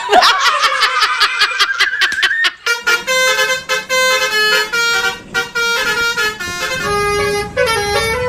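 Musical 'telolet' bus horn playing a short tune in held notes that step up and down, starting about three seconds in. Before it comes a wavering, rising tone with fast regular clicking.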